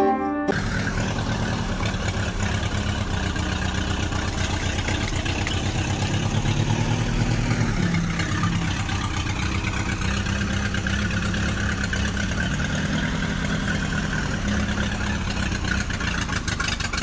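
Mini tractor's engine running steadily, with a low hum whose pitch dips slightly about halfway through.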